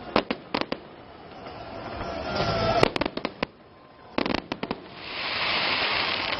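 Aerial fireworks bursting overhead: sharp bangs in quick clusters of two to five. A rising rush of noise builds up to the loudest cluster about three seconds in, and a steady hiss fills the last second or so.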